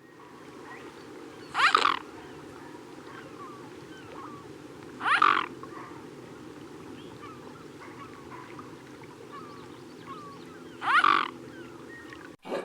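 An animal calling three times, each a short loud call that sweeps upward in pitch, over a steady background noise.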